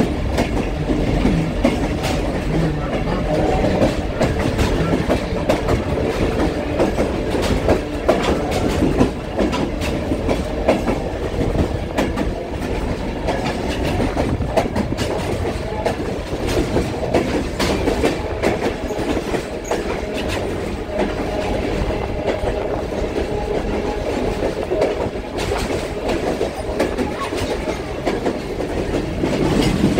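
Passenger train car running along the track, heard from on board: a steady rumble with the clickety-clack of the wheels over the rails.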